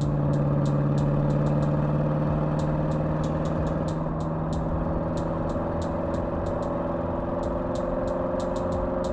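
Porsche Cayenne Turbo GT's twin-turbo V8 running at a steady cruising speed, a steady drone with light irregular ticking over it.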